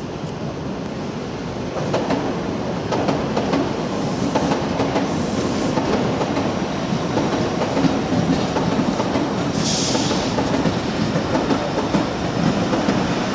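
Sydney Trains double-deck electric suburban train passing, a steady rumble of steel wheels on rail with scattered clicks over rail joints and pointwork. It gets a little louder about two seconds in as the train comes level, and there is a brief burst of high hiss about ten seconds in.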